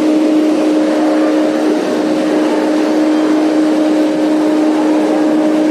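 Passenger train running, a steady rush of noise with a steady droning hum over it.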